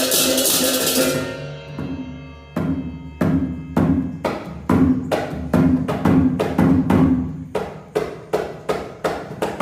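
Balinese baleganjur gamelan: a loud wash of crashing cymbals over ringing gong tones cuts off about a second in and dies away. It is followed by sharp, pitched percussion strokes about two a second, quickening slightly toward the end.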